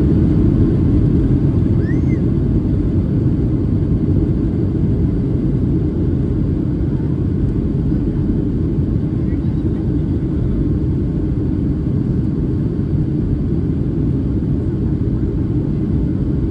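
Boeing 757-300 jet engines and airflow heard inside the passenger cabin: a steady, loud, low rumble with no changes.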